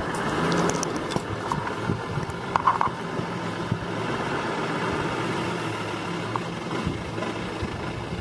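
A vehicle engine idling steadily under wind noise, with a few faint clicks in the first second.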